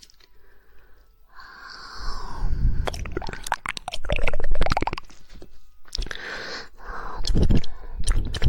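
Close-miked ASMR mouth sounds: a hissy, wet stretch of mouth noise, then rapid runs of sharp tongue clicks, the quick 'woodpecker' style of tongue clicking.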